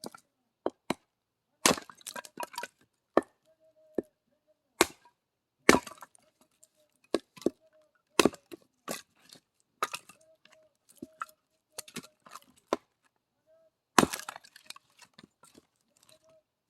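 Axe splitting firewood into small pieces: an irregular series of sharp chopping blows, with wood cracking and splintering after several of the harder strikes.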